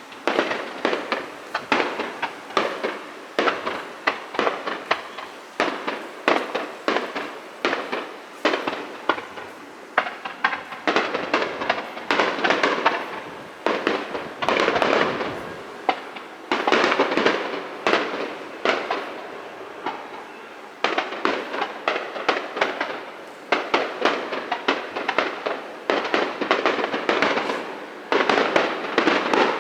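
Fireworks display: a continuous barrage of shell bursts going off several times a second, with stretches of dense crackling.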